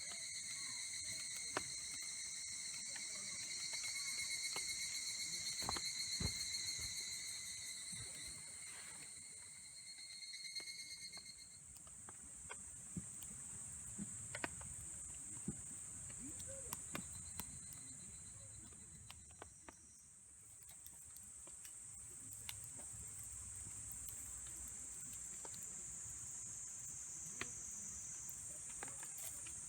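Insects chirring steadily in a high, unbroken chorus. A second, lower steady trill runs alongside it and stops about eleven seconds in. Scattered light ticks and taps sound throughout.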